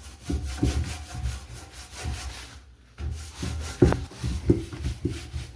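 Cloth rubbing back and forth over the rusty metal of a fire pit, wiping off rust dust and grease, in a series of short strokes with a brief pause partway through.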